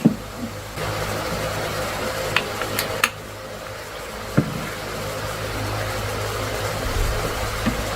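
A steady machine hum with a few sharp clicks and knocks, three close together about two and a half to three seconds in and one more a second later.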